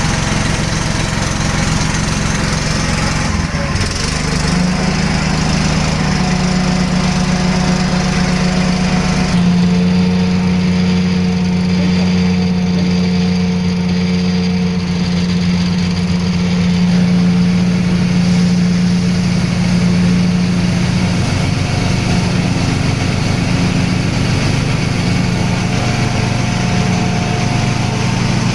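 Small engine driving a rice husking and milling machine, running steadily with a constant hiss over its low hum. Its note steps up about 4 seconds in and shifts again near 10 seconds, with smaller changes later on.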